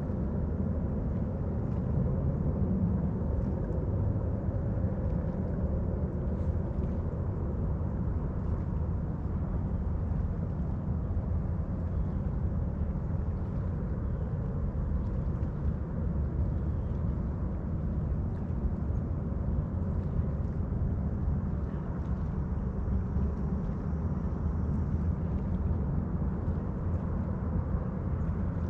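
Steady low outdoor rumble with no change in level, with faint high specks of sound above it.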